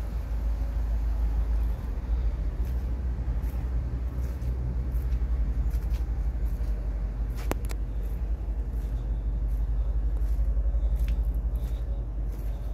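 A motor vehicle's engine running with a steady, low pulsing rumble. A sharp click sounds about halfway through.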